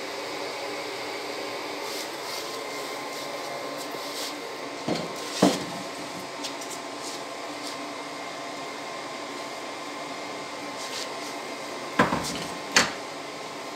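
Old hair dryer blowing air into a small gas-fired melting furnace, a steady whirring hum with a faint whine. Four sharp knocks cut through it, a pair about five seconds in and another pair near the end.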